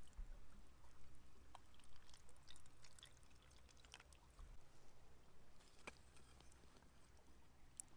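Small campfire crackling faintly: scattered small clicks and pops over near silence, one a little sharper about six seconds in.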